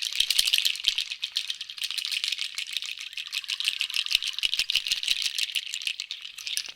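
A hand rattle shaken steadily for several seconds: a dense, fast run of high clicking that starts and stops abruptly.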